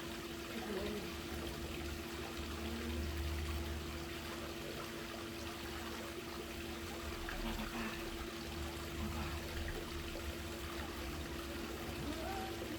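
Swimming pool water trickling and lapping, over a steady low hum.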